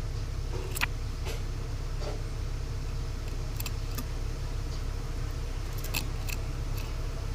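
Cucak ranting bird giving short, sharp chip calls, about seven at uneven intervals, over a steady low hum.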